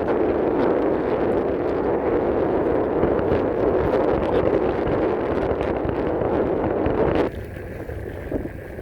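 Steady rushing noise of wind and travel on the microphone while on the move, cutting off abruptly about seven seconds in.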